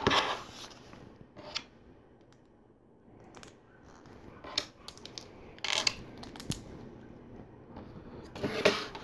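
Plastic LEGO pieces being handled and pressed together: scattered separate clicks and clacks, with a longer rustle at the start and another near the end.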